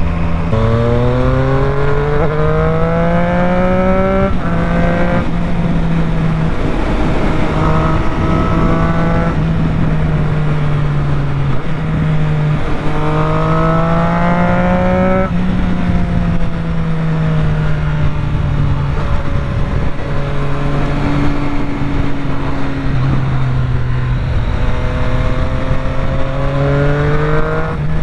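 Triumph Street Triple 765's inline three-cylinder engine pulling hard through the gears. The revs climb in several runs, each cut short by a sudden drop at an upshift, then fall away while rolling off between bends, with wind rush underneath.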